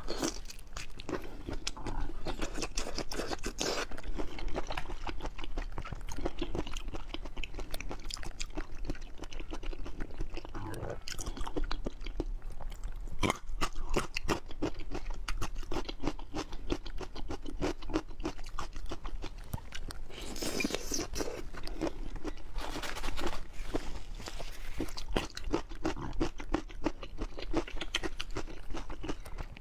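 A person chewing a large shrimp close to a clip-on microphone, with many irregular crunching, crackling bites that come in louder clusters now and then.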